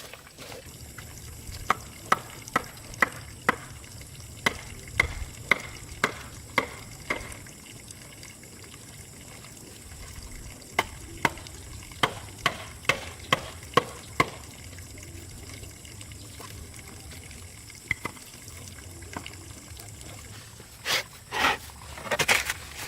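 Two runs of sharp, evenly spaced knocks, about two a second, over a faint steady background, with a few louder scraping or splashing noises near the end.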